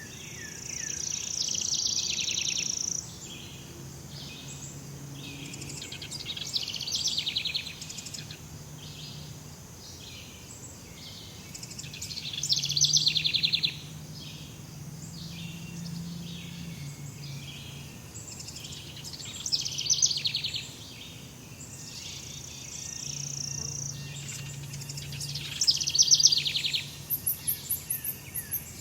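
Tropical forest ambience: loud buzzy, trilling calls from birds and insects recur about every six seconds over a steady high insect hiss, with a quick run of high ticking near the end.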